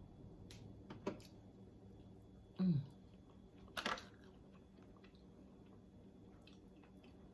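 A person eating king crab legs: soft chewing and small mouth clicks, a short low hum falling in pitch about two and a half seconds in, and a brief sharp noise near four seconds.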